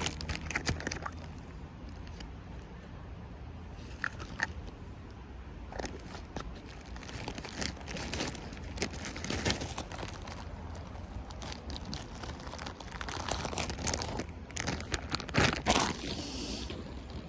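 Irregular crunching and crinkling rustles close to the microphone, with scattered clicks, busiest and loudest a few seconds before the end.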